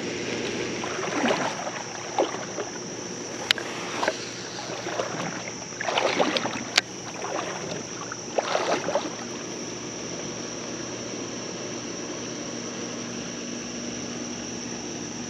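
Steady rush of creek water, with several short sloshes and splashes of water in the first nine seconds and two sharp clicks.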